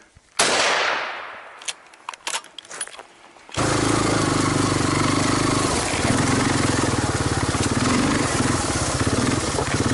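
A single loud gunshot with a long fading echo, followed by a few sharp clicks; about three and a half seconds in, the steady drone of a helicopter's engine and rotor cuts in abruptly.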